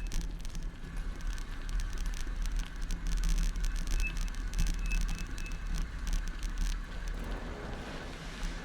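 Riding a bicycle with the camera fixed to the handlebars: a low wind rumble on the microphone and a quick crackling rattle from the bike and mount jolting over the road. The rattle dies down about seven seconds in.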